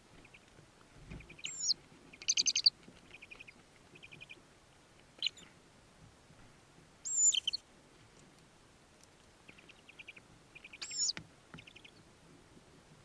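Tawny owl chicks calling in the nest box. There are about four sharp, shrill squeaks that drop in pitch, and between them short bursts of rapid chittering. A soft low thump comes about a second in.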